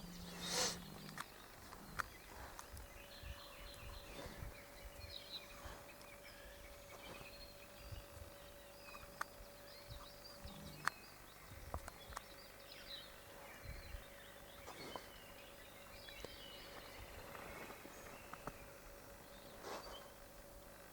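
Faint outdoor ambience: scattered bird chirps, small clicks, and a steady faint hum.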